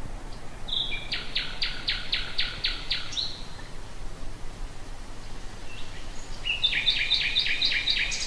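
Common nightingale singing: a short held whistle, then a run of about eight rapid, evenly repeated notes. After a pause of a few seconds a second phrase of quick repeated double notes, over a steady low background noise.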